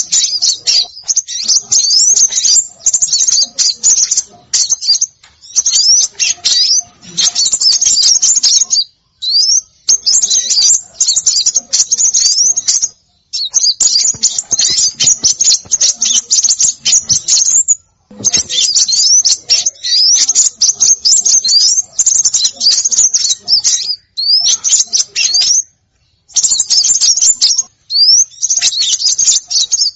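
Recorded bird-lure calls of small birds: dense, rapid, high-pitched chirping and twittering mixed with short rising whistles, in busy bursts of a few seconds with brief pauses between them.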